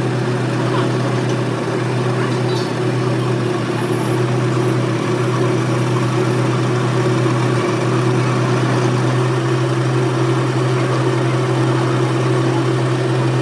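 A machine running steadily, a constant low hum with a few fixed tones; the tone mix shifts slightly about nine seconds in.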